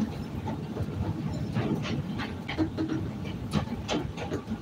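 CTA Red Line rapid-transit car rolling along the track: a steady wheel-on-rail rumble with irregular clicks and knocks.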